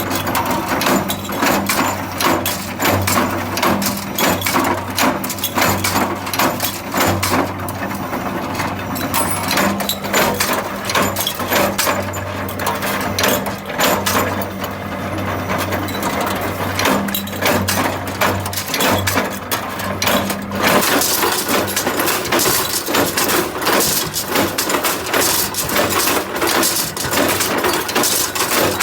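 Factory machinery at work: rapid, irregular clattering and clinking of hard parts over a steady low electrical hum. About two-thirds of the way through, the hum drops away and the clatter turns brighter and sharper.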